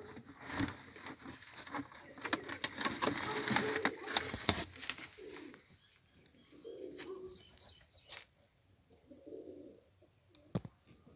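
Domestic pigeons cooing, a few separate low coos in the second half. A dense scratchy rustle with many sharp clicks fills the first half.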